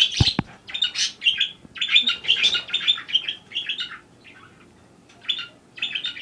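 Budgerigar chirping in quick runs of short chirps, breaking off about four seconds in and starting again near the end. A couple of sharp clicks come just after the start.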